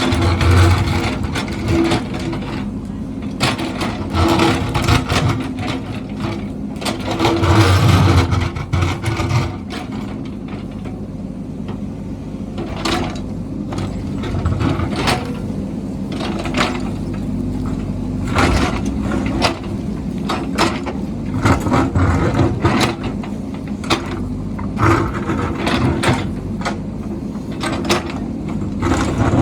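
A heavy construction machine's engine running steadily, with repeated metallic clanks, knocks and scraping as it works; the loudest grinding comes near the start and again about a third of the way in.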